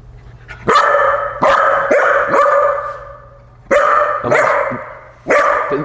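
A dog barking repeatedly at a newly introduced cat: a run of four barks, then two, then one more near the end.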